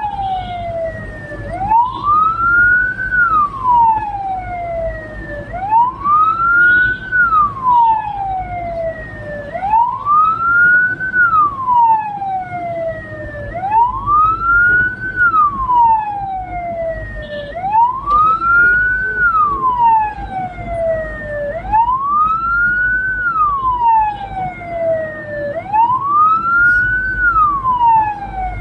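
Hearse siren wailing: a tone that rises quickly and then falls slowly, repeating about every four seconds, with low vehicle rumble underneath.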